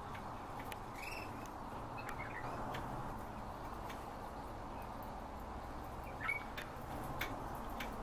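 Cage birds giving a few short, faint chirps, about a second in, around two seconds in and again after six seconds, with scattered soft clicks over a steady background hiss.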